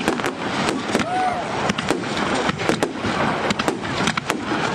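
Fireworks display: a dense run of sharp bangs and cracks, several a second, over a steady crackling hiss from bursting shells and crackle effects.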